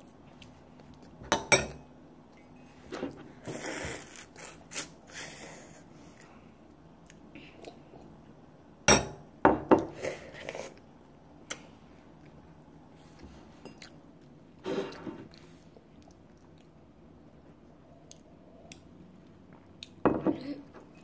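Close-miked mouth sounds of a child chewing soft raisin roll cake, coming in separate short bouts with quiet between them, along with the odd clink of a metal fork on a porcelain plate.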